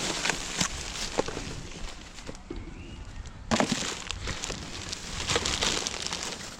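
Rummaging through discarded rubbish: rustling and irregular clicks and knocks as items are moved about, with one louder knock about three and a half seconds in.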